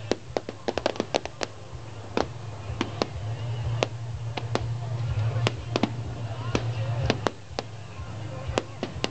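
Fireworks going off: irregular sharp cracks and bangs, some in quick clusters, over a steady low rumble that swells in the middle and eases near the end.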